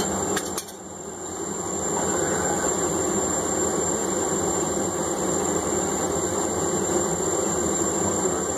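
Blacksmith's forge running with a steady, loud roar. There are a couple of sharp clicks about half a second in, and the roar dips briefly before a second in, then builds back up.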